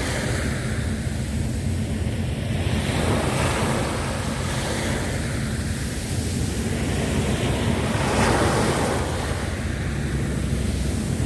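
Sea waves washing onto the shore, the surf swelling and easing every few seconds, with wind rumbling on the microphone.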